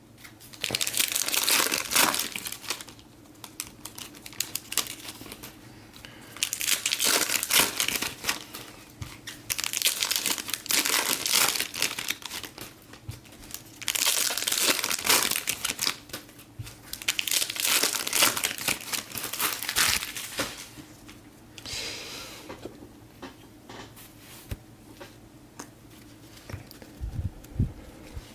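Foil trading-card pack wrappers being torn open and crinkled by hand, in about five bouts of a few seconds each, then quieter card and wrapper handling near the end.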